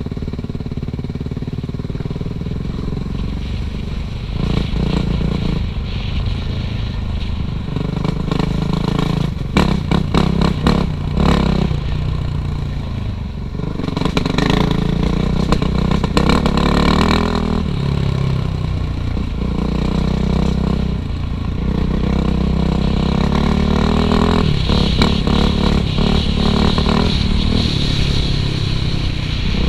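Suzuki RM-Z450 dirt bike's single-cylinder four-stroke engine revving up and easing off again and again under changing throttle on a trail ride. Bursts of clattering knocks come through several times, loudest about a third of the way in.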